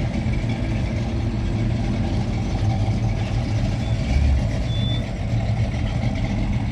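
Hot rod's engine running steadily at idle, low and even.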